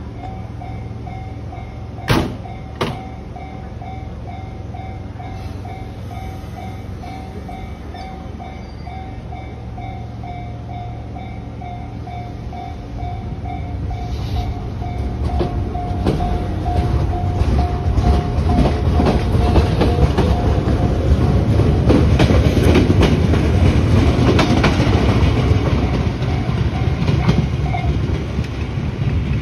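Chichibu Railway 5000 series electric train, a former Toei Mita Line set, pulling out of a station. Two sharp knocks come about two seconds in. From about halfway the motors' whine rises slowly in pitch and the wheels clatter louder over the rail joints as the train gathers speed, while a level-crossing bell rings evenly and stops near the end.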